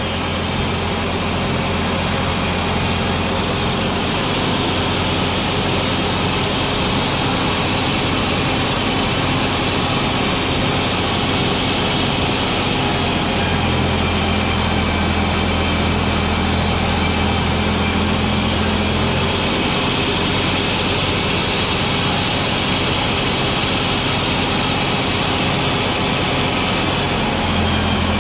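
A sawmill machine runs steadily with a loud, engine-like drone. Its sound shifts between two states a few times, every several seconds.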